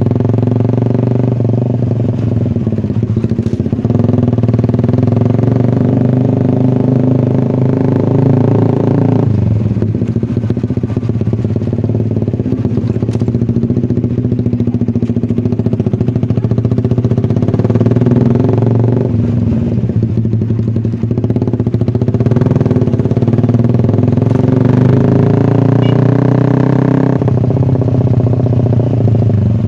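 Suzuki Satria F150 fuel-injected single-cylinder engine running loud through an SC-Project aftermarket exhaust, its revs rising and falling several times.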